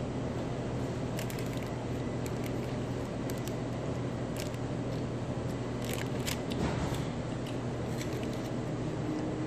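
A person eating a chicken quesadilla: scattered small clicks and crunches, irregularly spaced, over a steady low hum.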